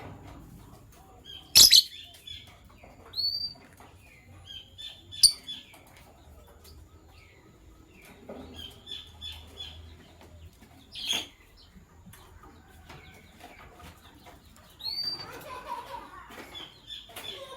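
Lovebirds chirping in short repeated clusters, with a few sharp loud bursts about 1.5, 5 and 11 seconds in and denser chattering near the end.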